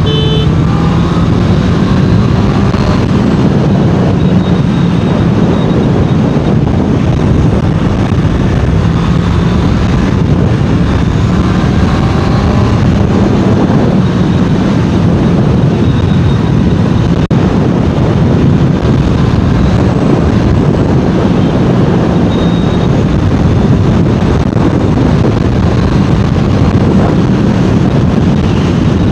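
Honda CBR650R inline-four engine running at a steady cruising speed, with wind rush over it.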